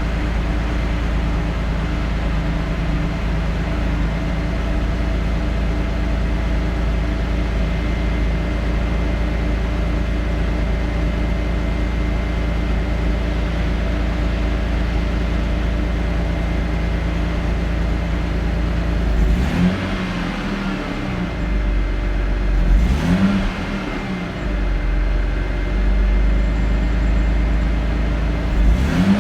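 Mercedes G 36 AMG's 3.6-litre straight-six idling steadily after a cold start, then revved briefly three times, its pitch rising and falling with each blip.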